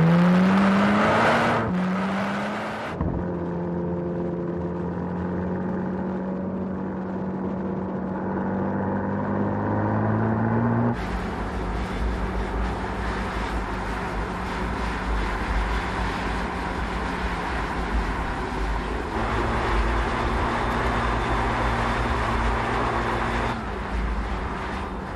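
Mercedes-AMG GT Black Series V8 accelerating hard: its pitch rises, drops at a gear change about two seconds in, then climbs slowly for several seconds. After that the engine runs at steadier revs, the sound changing abruptly a few times.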